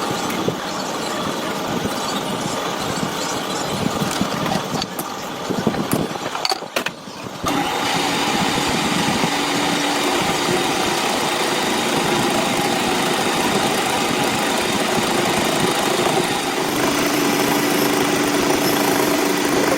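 Metal lathe running steadily with a held machine hum. Its sound drops away briefly about six to seven seconds in, then comes back and runs on steadily.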